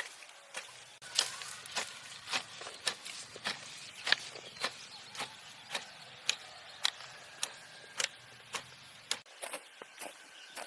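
Repeated sharp strikes at an even pace, about two a second, like a tool striking over and over. A faint low hum runs underneath and stops near the end.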